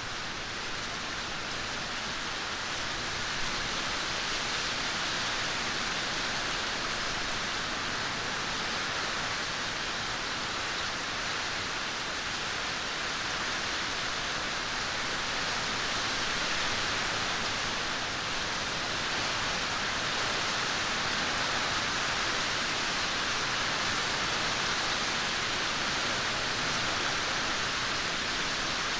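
Steady rain, a dense even hiss with no separate drops or other sounds standing out.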